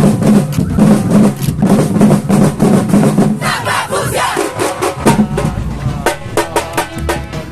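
Batucada samba drum ensemble playing, with surdo bass drums and snares; from about halfway through a crowd is shouting and cheering over it.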